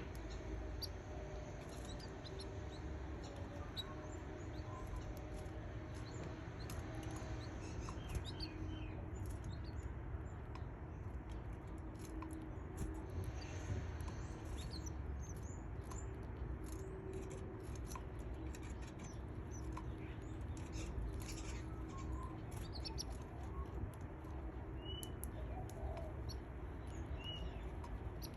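Canary nestlings giving faint, high squeaky cheeps, with a few short chirps near the end, amid small rustles and scratches in the nest over a steady low hum.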